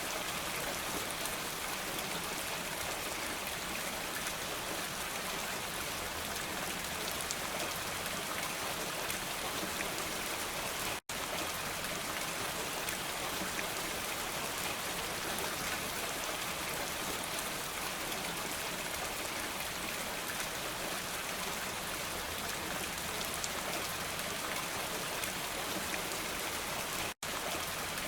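Steady rainfall, a dense even hiss with the patter of many drops. It cuts out to silence for a split second twice, about 11 seconds in and near the end.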